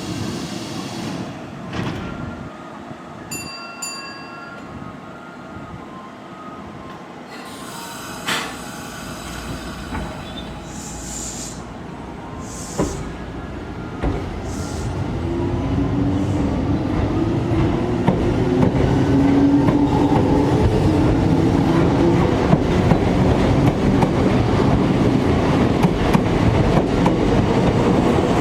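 Kintetsu electric train on the rails at the station, growing louder from about halfway in and staying loud to the end, with a whine from the train.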